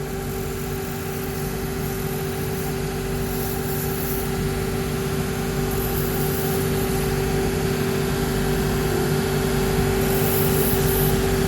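Shoe-repair workshop machine's electric motor running with a steady hum that slowly grows louder, with short stretches of light hiss coming and going above it.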